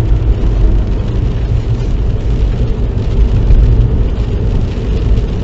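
Car cabin noise while driving: a steady low rumble of the engine and tyres, with a hiss of tyres on a wet road.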